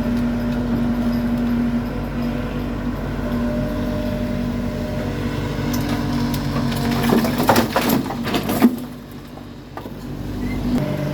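Engine of a heavy work machine running steadily, with a burst of crunching and knocking about seven seconds in; the engine then drops off for a moment before picking up again near the end.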